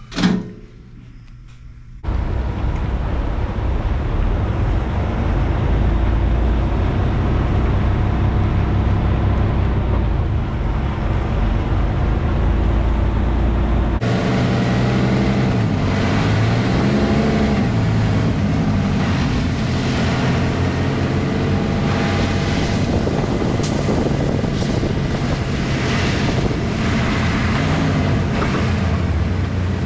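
Semi truck's diesel engine running while the truck is driven, its pitch rising and falling with the revs in the second half. A brief sharp sound comes at the very start.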